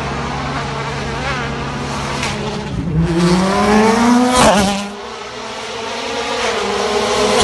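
World Rally Car's turbocharged 1.6-litre four-cylinder engine at full throttle, its note climbing steeply to a loud peak about four and a half seconds in and then dropping away as the car passes. Another climbing engine note builds toward the end.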